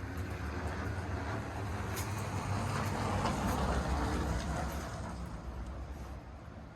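A road vehicle driving past: a rumbling hiss that swells to its loudest about three to four seconds in and then fades away.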